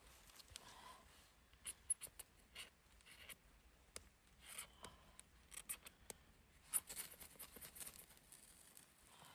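Faint, irregular clicks and rustles of something being handled, with a few sharper ticks, the loudest about two seconds in and again near seven seconds.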